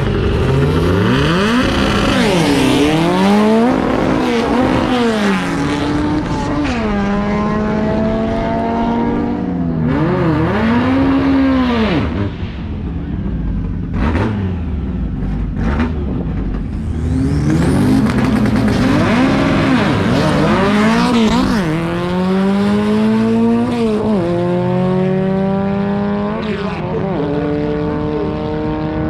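Drag race cars, one of them a Volkswagen-engined bracket car, revving in repeated blips on the line, then accelerating hard down the strip with the engine pitch climbing and dropping back at each gear shift. This happens twice.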